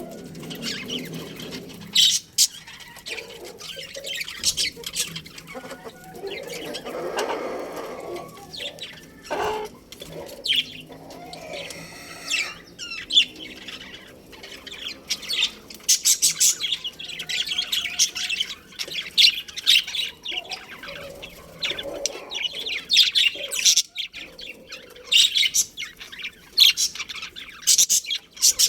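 Budgerigars chirping and chattering, with many short, high calls that become denser and busier through the second half.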